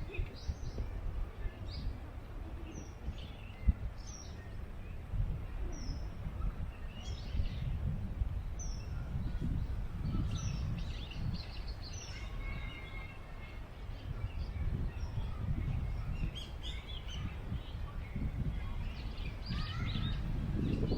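Small birds chirping, short high chirps every second or so through the whole stretch, over wind buffeting the microphone with an uneven low rumble.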